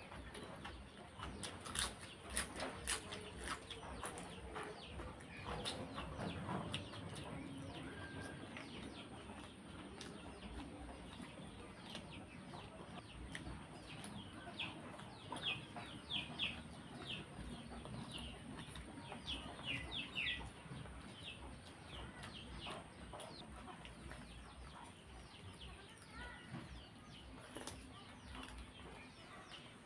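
Close-up wet chewing and lip-smacking of a mouthful of rice and curry eaten by hand, with fingers working rice on a plate. Faint bird chirps sound in the background, with a run of short chirps about halfway through.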